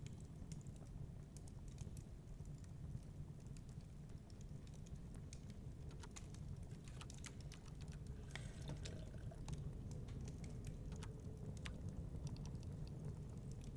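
Wood fire crackling in a fireplace: irregular small pops and snaps, thickest for a couple of seconds around the middle, over a steady low rumble.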